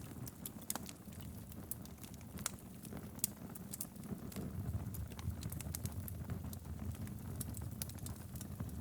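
Wood logs burning in a fireplace: irregular sharp crackles and pops over a steady low rumble of the flames, with one louder pop about three seconds in.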